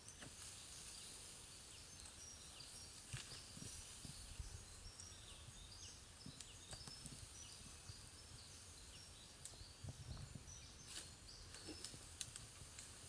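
Faint outdoor ambience. Short high chirps repeat through the middle, over a steady high hiss and a low rumble, with a few sharp clicks near the start and the end.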